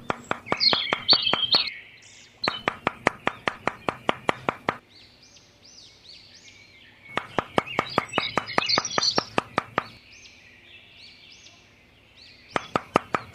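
Birds chirping steadily, broken by repeated stretches of rapid sharp clicks, about five a second, each stretch lasting two to three seconds.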